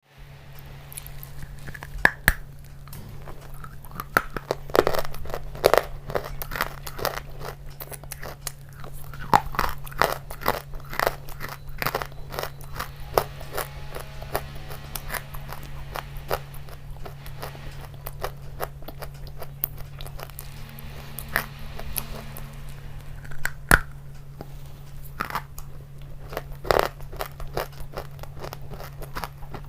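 Close-miked eating: a person biting into and chewing crunchy food, with repeated sharp crunches and smaller chewing crackles, over a steady low hum.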